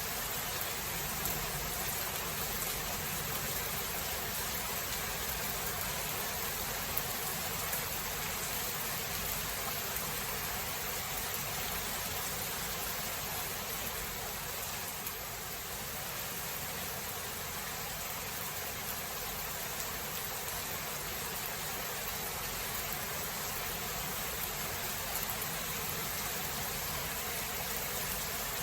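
Steady rain falling, an even hiss with a few brief louder drop ticks.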